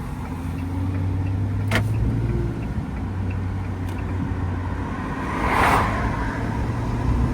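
Van engine and road noise heard from inside the cab while driving: a steady low hum that rises slightly in pitch. A sharp click comes about two seconds in, and a brief swell of noise a little past halfway.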